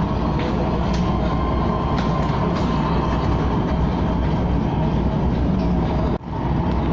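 KTM ETS electric train running at speed: a steady rumble of wheels on the track with a few faint clicks. The sound drops out for a moment a little before the end, then returns.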